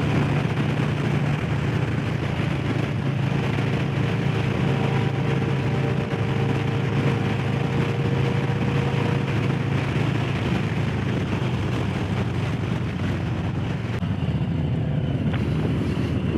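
Harley-Davidson Low Rider S's Milwaukee-Eight V-twin running steadily at high highway speed, under heavy wind rush on the microphone. The bike is at its top speed, which the rider thinks is governed at 115.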